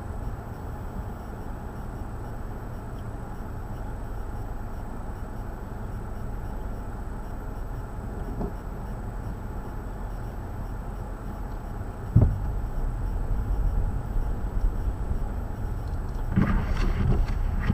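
Outdoor ambience in a snowstorm: a steady low rumble, with a sharp thump about twelve seconds in and a brief clatter near the end.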